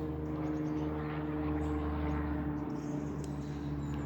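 TfL Rail Class 345 electric multiple unit running past, a steady hum of several held tones over an even rushing noise.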